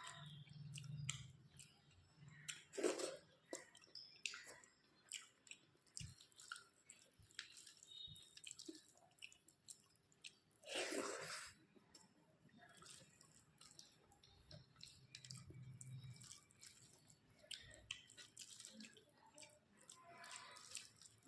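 Close-miked chewing and wet mouth sounds of someone eating a rice meal, with many small smacking clicks and squishes. There are two louder, longer wet sounds, about three seconds in and about eleven seconds in.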